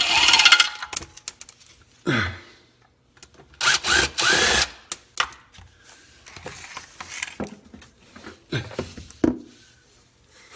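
Oil pan bolts being undone from the engine's pan with a power driver, which runs in a few short bursts that rise in pitch, with clinks of metal between.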